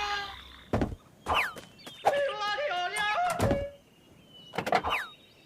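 Cartoon sound effects: a few sharp thuds, short falling whistles, and in the middle a wobbling, stepping tone that lasts about a second and a half.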